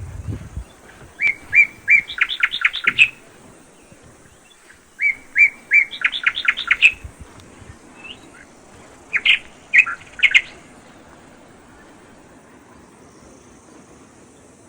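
A songbird singing: three short even notes followed by a quick run of rising and falling notes, heard twice, then a shorter phrase of a few notes. A brief low thump at the very start.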